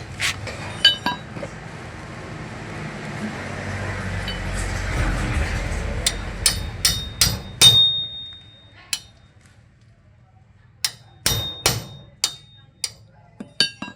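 Hammer striking metal: a dozen or so sharp blows in uneven groups in the second half, some leaving a brief ringing tone. Before them, a steady noisy rumble with a few clicks.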